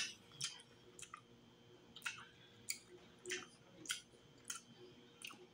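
Close-up mouth chewing of buttered seafood: short, wet smacking clicks at an even pace, a little under two a second, faint overall.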